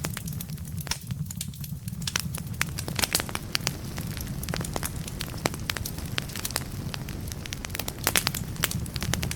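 Wood fire burning in a fireplace, crackling with many sharp snaps over a steady low rumble. The snaps thin out briefly about a second in, then come thick and fast.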